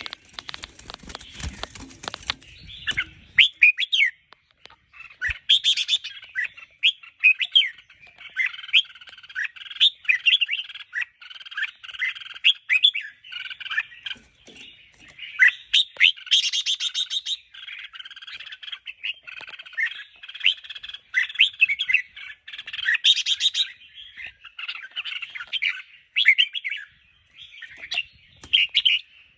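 Red-whiskered bulbuls singing a continuous run of quick, bright chirped and whistled phrases, the varied song used to excite cage birds. A broad noise sits under the song for the first three seconds or so.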